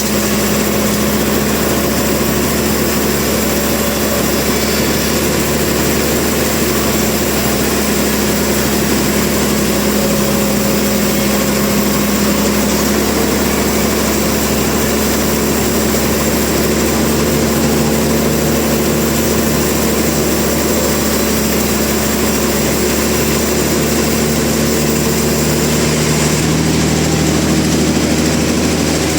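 Sawmill machinery running with a steady engine-like drone and a constant hum. About 26 seconds in, the lower tones shift, as if the machine changes speed or load.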